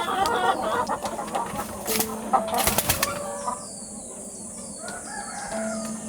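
Chickens clucking, with a burst of sharp clattering about two to three seconds in, after which the sound grows quieter.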